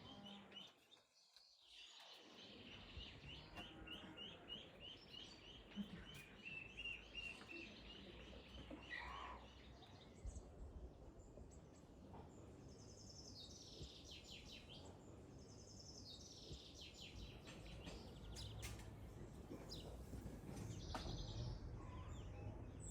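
Faint birdsong: a quick, even run of repeated chirps for the first several seconds, then a few high descending calls spaced a few seconds apart.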